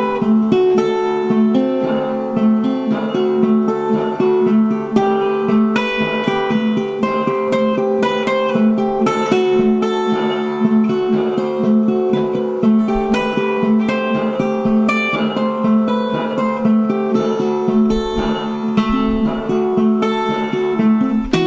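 Background music: acoustic guitar playing, plucked notes and strummed chords.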